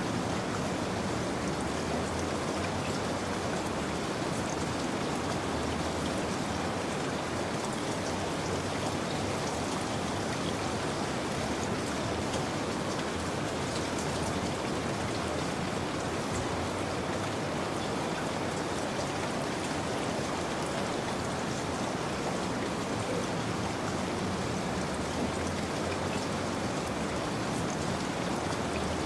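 Steady rain falling, an even hiss with fine drop patter that holds level throughout.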